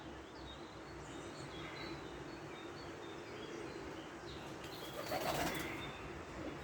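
Birds chirping with many short, high calls over steady background noise, and a louder rush of flapping wings from about four and a half to six seconds in.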